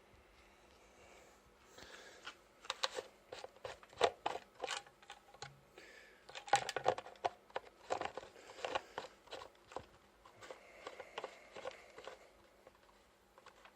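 A run of clicks, knocks and rustling handling noises, busiest in the middle and tailing off near the end, with no engine running.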